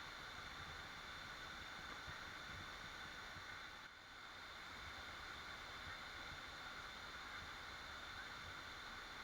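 Waterfall: a steady rush of falling water, dipping briefly in level about four seconds in.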